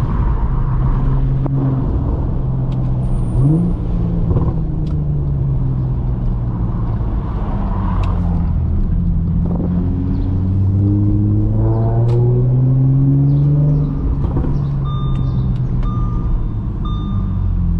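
Audi S4 B8.5's supercharged 3.0-litre V6 running through an AWE touring cat-back exhaust with test pipes, driving at low speed: its note rises and falls with the throttle, with a quick rev about three seconds in and a steady pull from about ten seconds that drops off near fourteen seconds. A repeated electronic beep, about once a second, comes in near the end.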